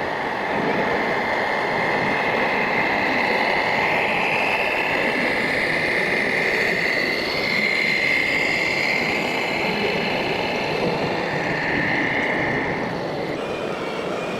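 Small electric motor and gear drive of a radio-controlled model whining steadily, wavering slightly in pitch, over a constant rushing noise; the sound changes abruptly near the end.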